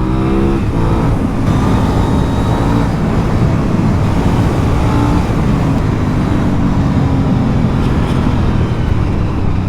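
Aprilia Dorsoduro 900's 90-degree V-twin engine running steadily on the move, its pitch holding nearly even with only a slight drift.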